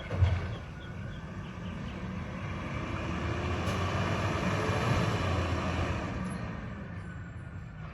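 Recycling truck's engine rumbling as it comes by, swelling to a peak about five seconds in and then fading. A short thump sounds right at the start.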